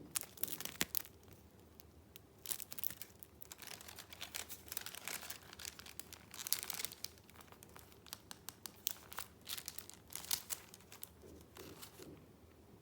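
Paper rustling and crinkling as sheets and pages of a handmade junk journal are handled, in irregular flurries of crackles and light taps.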